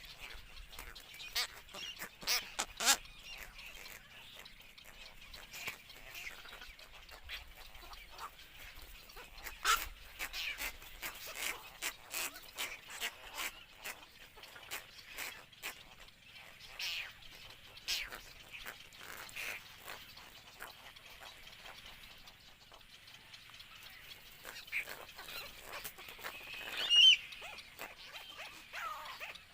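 Herons calling: a stream of short, sharp calls scattered irregularly, with one louder call near the end.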